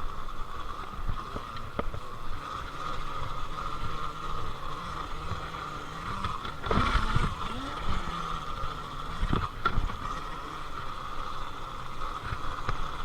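Happy Run electric dirt bike riding on a dirt trail: a steady high electric-motor whine over wind rush and tyre rumble, with a louder jolt and knocks about halfway through and another sharp knock a couple of seconds later.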